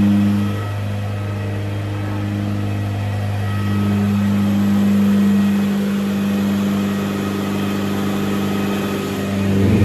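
Turbocharged Honda K24 four-cylinder in a Nissan Hardbody truck idling steadily on a chassis dynamometer, a constant hum with no rise in pitch.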